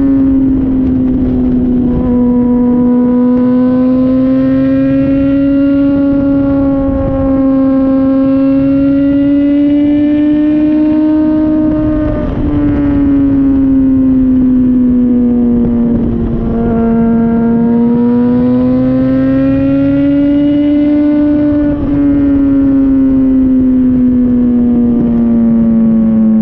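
Honda CBR600RR inline-four engine heard through a Yoshimura RS-5 exhaust while riding. It holds a steady, fairly even note that rises and falls gently with small throttle changes, with a few brief dips.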